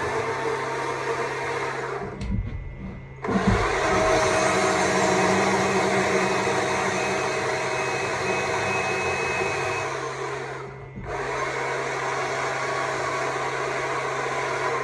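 Stihl MSA 200 C battery chainsaw running as it carves wood, in three runs: it cuts out about two seconds in, starts again a second later, and pauses briefly near eleven seconds.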